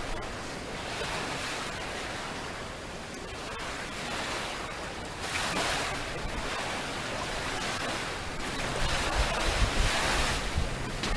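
Small sea waves breaking and washing up the shore, coming in surges a few seconds apart, with some wind on the microphone.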